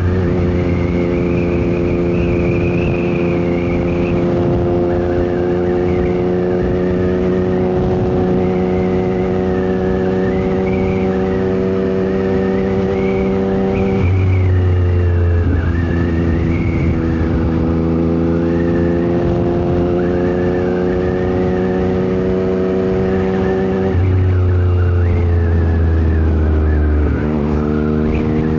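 Yamaha MT-09 SP three-cylinder engine through an aftermarket Dominator GP exhaust, pulling steadily under way with its pitch slowly climbing, broken by gear changes about midway and twice near the end. Wind noise rushes underneath.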